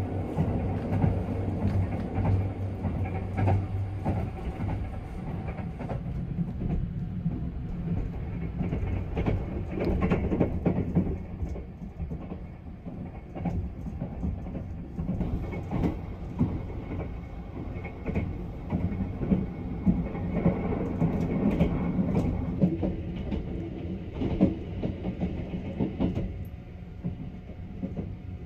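Sunrise Izumo sleeper train, a 285 series electric multiple unit, running along the line, heard from inside the compartment: a steady low rumble with irregular clicks of the wheels over rail joints.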